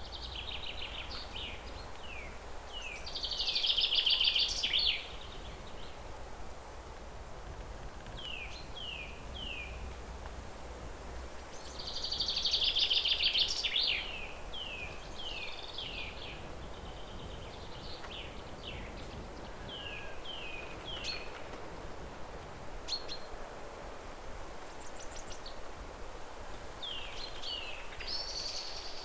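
Wild birds singing: runs of short falling chirps, and twice a loud rapid trill about two seconds long. Under them is a steady low background noise.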